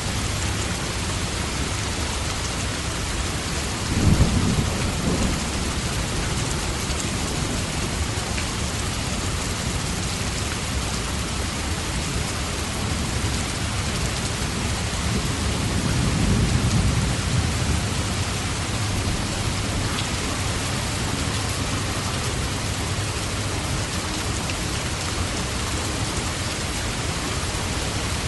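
Steady heavy rain with thunder: a sharp crack of thunder about four seconds in, and a longer rolling rumble that swells and fades around the middle.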